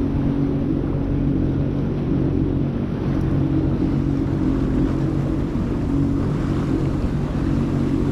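Jet ski engine running with a steady hum, over a constant rush of wind and water.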